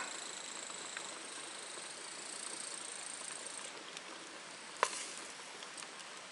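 Outdoor ambience with an insect's thin, high, steady trill that stops about three and a half seconds in, over a soft patter with scattered faint ticks and one sharp click about a second later.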